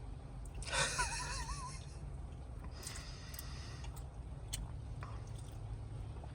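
Steady low hum of room tone, with a short breathy sound carrying a wavering squeak about a second in, a second breathy sound around three seconds, and a faint click later.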